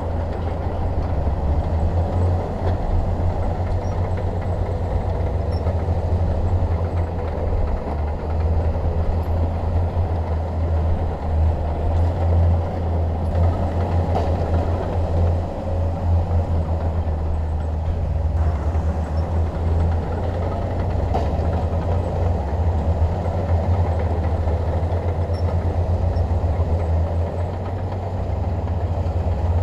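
Bulldozer's diesel engine running steadily under load as it works, a constant low drone with a rougher mid-range noise over it.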